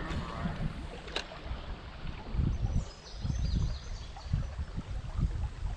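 Fast-flowing creek water rushing around a kayak, with wind gusting on the microphone and a single sharp knock about a second in.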